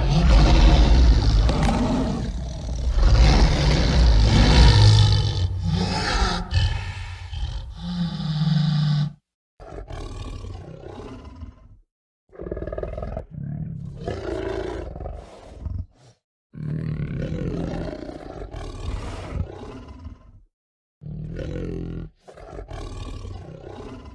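Roaring sound effects: one long, loud roar lasting about nine seconds, then five shorter growling roars, each cut off by complete silence.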